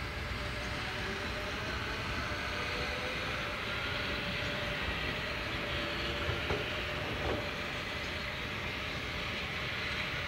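Train running along the track: a steady rush of wheel and rail noise with a faint held whine, and a few sharp clicks about six to seven seconds in.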